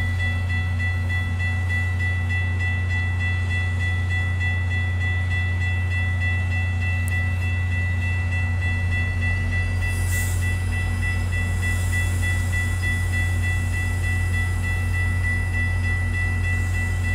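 Commuter train standing at the platform with its equipment running: a steady low hum with a thin, steady high whine on top. A brief hiss comes about ten seconds in.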